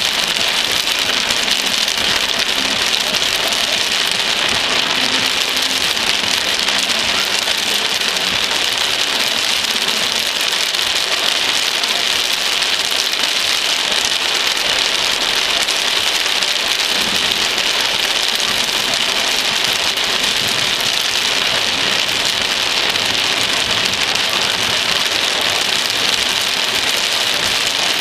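Heavy thunderstorm rain pouring down in a steady, dense hiss with no let-up.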